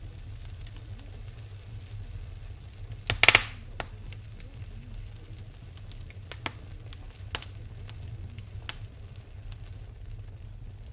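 Wood fire in a fireplace crackling, with scattered sharp pops over a low steady rumble. About three seconds in comes one loud hissing pop.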